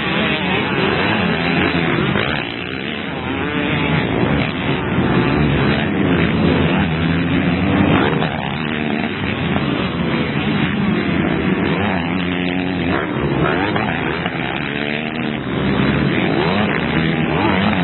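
Several motocross bikes racing, their engines revving up and down in overlapping rising and falling whines.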